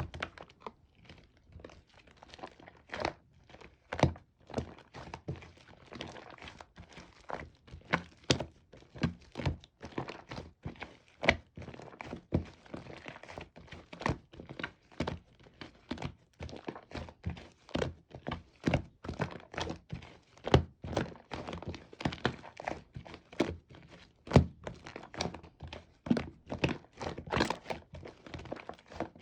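Slime being squeezed and poked by hand, giving a continuous run of sharp, irregular pops and clicks, about two or three a second.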